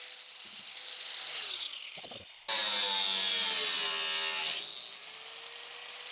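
Power tool cutting sheet steel, running with a steady whine. In the middle it turns loud for about two seconds while its pitch sags, then it goes back to running lightly.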